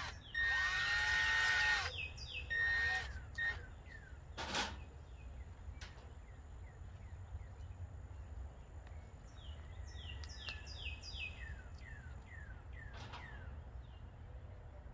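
A power drill runs in two short bursts with a steady whine near the start, followed by a sharp click. A few seconds later a wild bird gives a rapid series of short down-slurred chirps.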